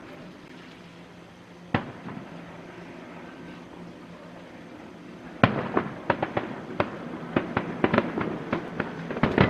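Aerial fireworks shells bursting: a single bang about two seconds in, then from a little past halfway a rapid run of bangs and crackles, several a second.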